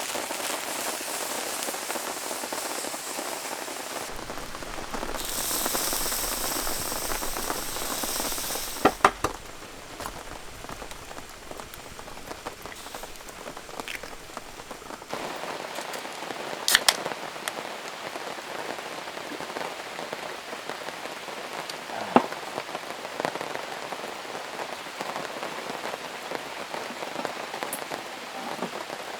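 Heavy rain falling as a steady hiss, with a few sharp clicks and taps now and then.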